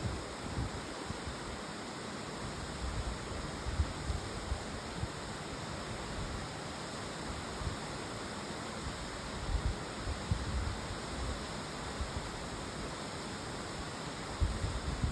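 Strong wind blowing as a steady hiss, with gusts buffeting the microphone in low rumbles now and then.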